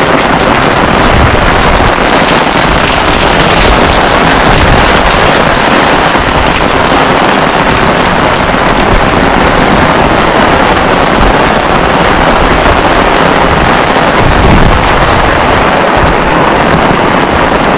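Heavy rain falling steadily as a loud, even hiss, with wind buffeting the microphone in the low end.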